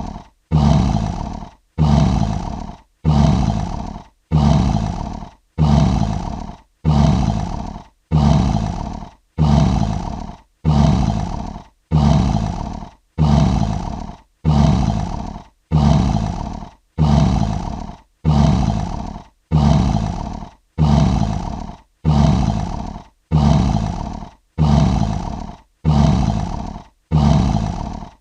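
A short lion roar sound effect played on a loop: the same roar repeats about every 1.2 seconds. Each roar starts loud and fades, then cuts off sharply before the next one begins.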